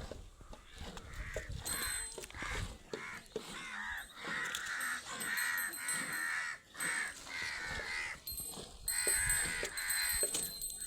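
Birds calling, many calls following one another almost without pause, with a few short breaks.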